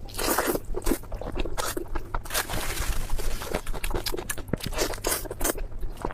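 Close-miked eating sounds: crunchy bites and chewing in quick, irregular bursts.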